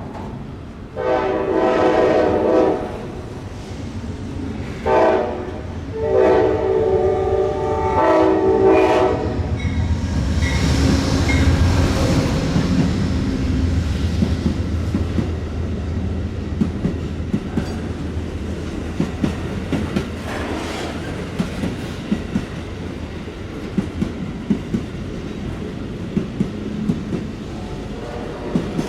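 Diesel locomotive air horn sounding a chord: a long blast, a short one, then another long one. The locomotive then passes with a low engine sound, followed by the cars' wheels clicking steadily over the rail joints.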